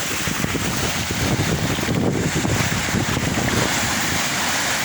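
Sea waves washing on the shore in a steady hiss, with wind buffeting the microphone in low rumbling gusts.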